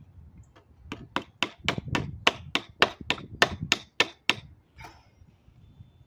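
A hammer tapping a staple into a bird feeder: about a dozen quick, sharp blows, roughly three a second, stopping a little past the middle.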